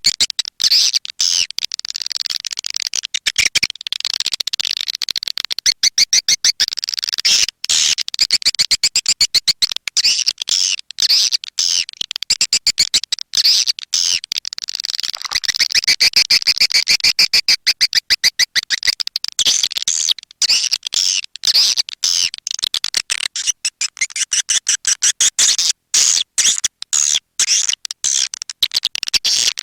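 Swiftlet calls: a dense, rapid twittering of high chirps mixed with fast trains of clicks, with brief gaps. This is a swiftlet lure call (suara panggil), played to attract swiftlets to roost and nest.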